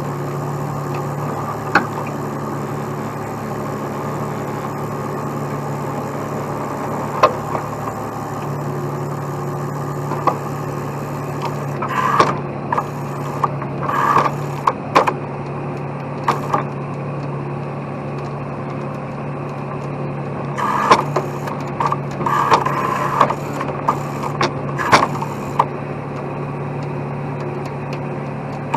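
A heavy truck's engine runs steadily throughout. Short sharp clanks and knocks come in scattered single hits, then bunch together about twelve to seventeen seconds in and again about twenty-one to twenty-five seconds in.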